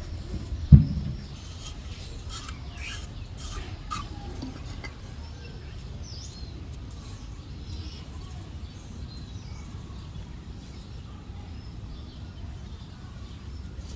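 Outdoor background noise with a low rumble, one loud knock about a second in and a few scattered clicks in the first few seconds, with faint bird chirps.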